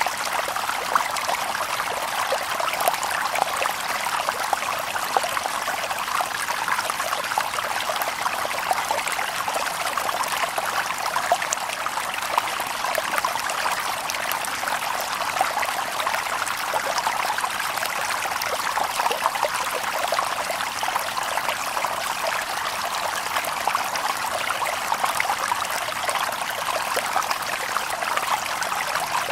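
A shallow stream babbling steadily over stones, a continuous rush of water with quick small splashes and trickles.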